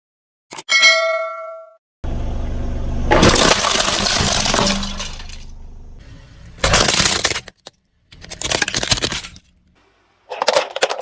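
A short metallic ding that rings on for about a second, then several separate bouts of crackling and crunching as car tyres roll over and crush brittle objects, the loudest a brief burst about seven seconds in.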